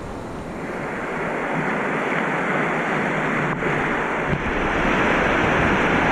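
Rushing water of a fast-flowing river, a steady noise without any tone that grows louder over the first couple of seconds.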